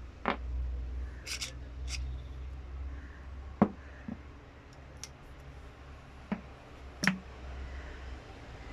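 Scattered sharp clicks and taps of handled tools and parts, about eight in all, the loudest a little past three and a half seconds in and near seven seconds, over a low steady hum.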